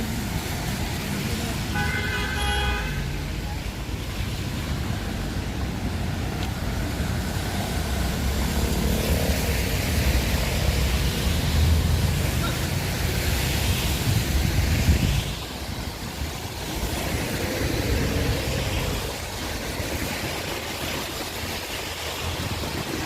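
Street traffic on a wet road, with wind buffeting the microphone in a low rumble that swells and then drops off sharply. A car horn sounds once briefly about two seconds in.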